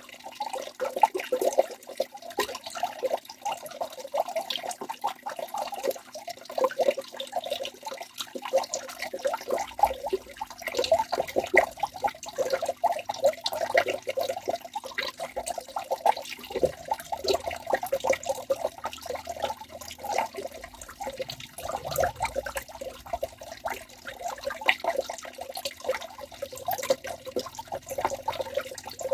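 Waterfall: water rushing and splashing continuously, a dense churn of small splashes with no let-up.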